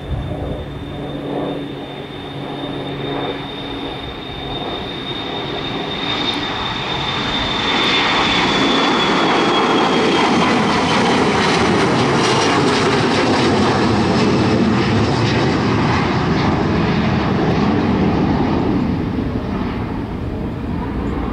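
An Xpress Air airliner taking off: the engines run at takeoff power, with a high whine over a broad rushing noise. The noise swells to its loudest a few seconds in, and the whine drops slightly in pitch as the plane passes. It then fades away near the end.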